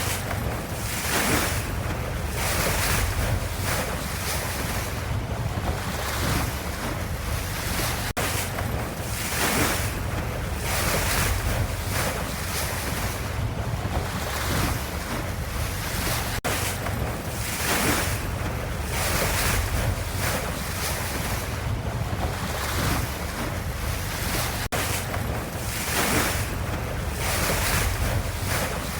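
Ocean waves washing in a steady low rumble, with a swell of surf hiss every second or two. A brief dropout comes about every eight seconds.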